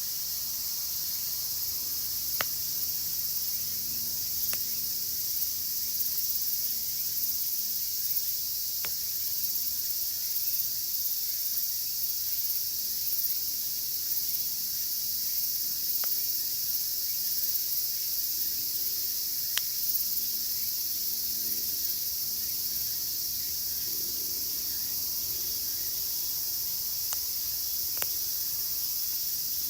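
A dense, steady, shrill chorus of cicadas (semishigure), with the sharp pops of a wood fire crackling about seven times.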